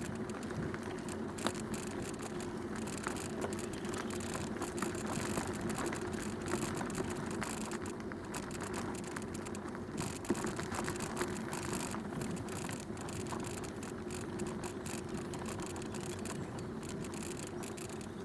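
Bicycle being ridden along a towpath, with steady tyre and drivetrain noise and a continual rattle of small clicks and knocks from a loose part on the bike that the rider has not yet cured.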